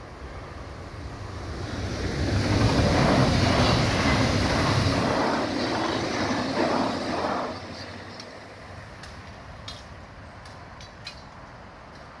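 A red DB Regio electric passenger train passing the level crossing: its rush builds for about two seconds and stays loud for about five. It ends in a run of evenly spaced wheel clacks, then drops away suddenly about eight seconds in.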